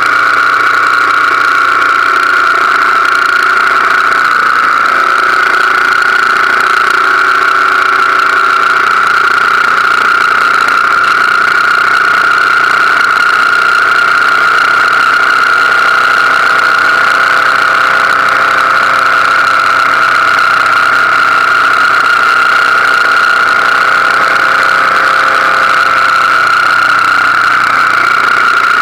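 BMW R1200GS Adventure's boxer-twin engine running steadily while cruising at road speed, loud and even, with a slight change in pitch about four seconds in.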